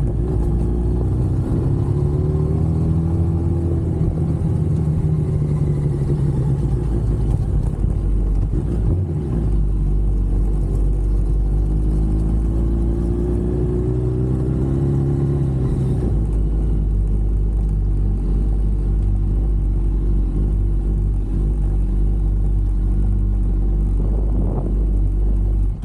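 Yamaha R1 sport motorcycle's inline-four engine running while being ridden, its note rising and falling twice, over a steady low rumble.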